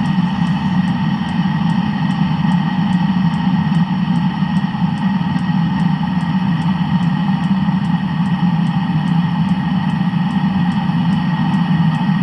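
A Land Rover running steadily at an even level, with a faint regular tick about twice a second.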